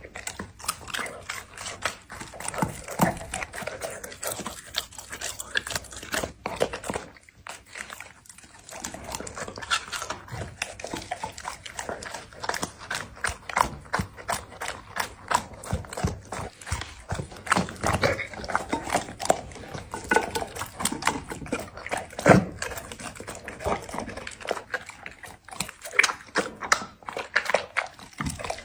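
A Labrador eating raw meat and bone: wet chewing and irregular sharp crunches of bone, many in quick succession, with a short pause part-way through.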